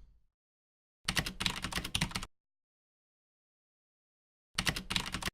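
Two bursts of rapid keyboard typing clicks, the first a little over a second long and the second shorter, near the end, with dead silence between them.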